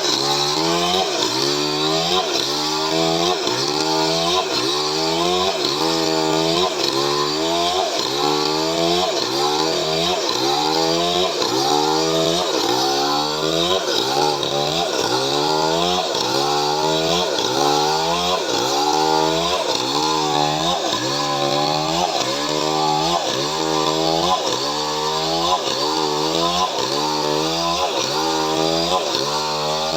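Chainsaw running under load while cutting coconut-palm wood, its engine pitch rising and dropping about once a second.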